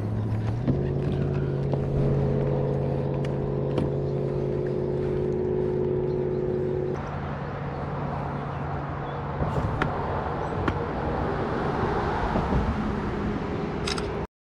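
A boat's electric motor running with a steady hum, which steps up in pitch about half a second in and changes again about halfway through. The sound cuts off suddenly near the end.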